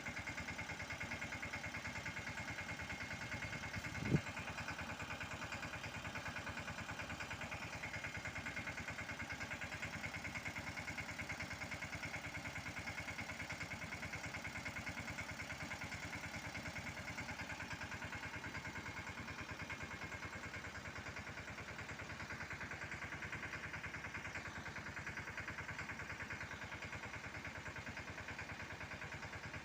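Mahindra Yuvraj 215 mini tractor's single-cylinder diesel engine running steadily, with one sharp knock about four seconds in.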